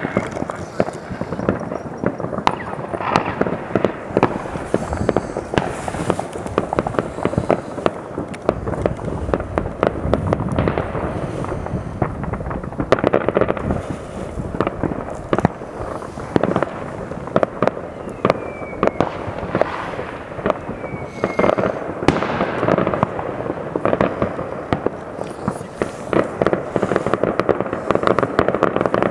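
Many fireworks going off at once across a whole town: a dense, unbroken patter of overlapping bangs and pops, some nearer and louder than others. A few short falling whistles run through it.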